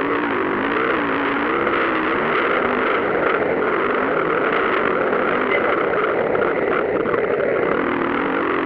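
Several motocross bikes' engines revving up and down over and over as they race, loud and distorted.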